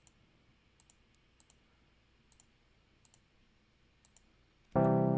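Faint, scattered computer mouse clicks, some in quick pairs, while editing in a DAW; near the end a loud software synthesizer note with many harmonics starts and holds as playback begins.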